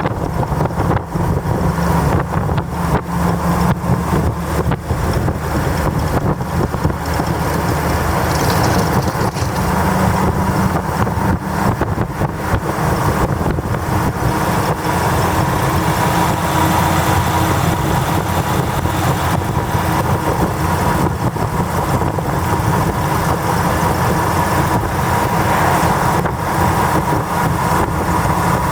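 A large motor vehicle's engine idling steadily, a low even hum with no revving.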